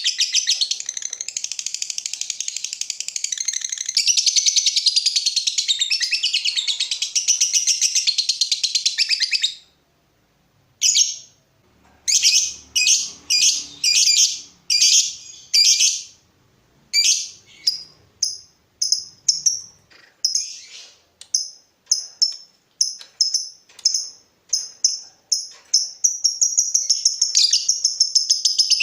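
Lovebird giving a long, rapid, high-pitched chattering trill (the "ngekek" song). It breaks off about a third of the way in, then comes back as a series of sharp single chirps at about two a second, and runs on into the continuous trill again near the end.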